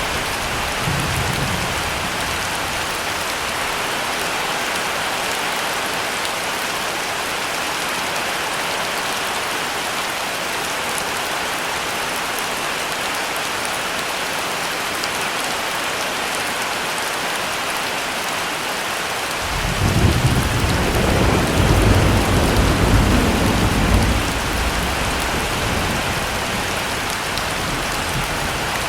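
Heavy rain falling steadily. About two-thirds of the way through, a rumble of thunder starts suddenly, stays loud for about four seconds, then fades back under the rain.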